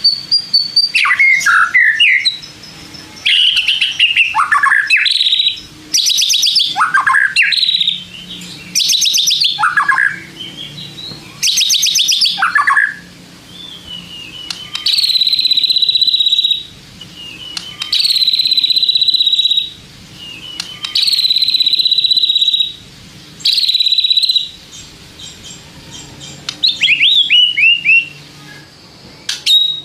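White-rumped shama singing. It starts with rapid, varied phrases of sweeping and trilled notes, then about halfway through gives four long, even, high notes in a row, each about a second and a half, before returning to quick trills near the end.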